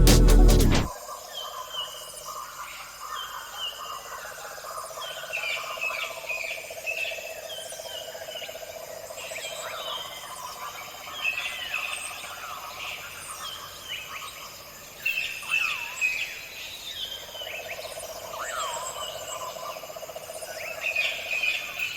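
Electronic music cuts off about a second in, giving way to a wild bird chorus: many birds calling and whistling in short rising and falling notes, over a steady drone that comes and goes in two long stretches.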